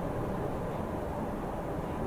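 Tokyu Oimachi Line electric commuter train running at speed, heard from inside the carriage: a steady, even rumble of wheels on rails and running gear.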